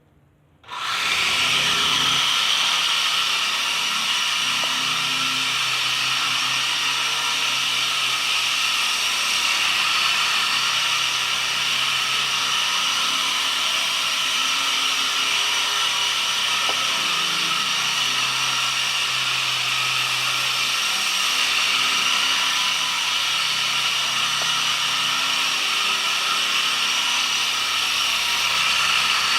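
Small electric motors of a homemade remote-control helicopter running steadily with a high whine, starting abruptly about a second in.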